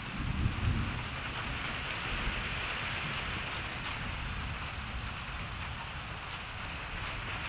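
Steady rain falling, a dense even hiss of drops, under a low rumble of distant thunder that swells briefly about half a second in.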